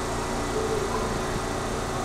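Electric commuter train running, a steady rumble with a faint hum.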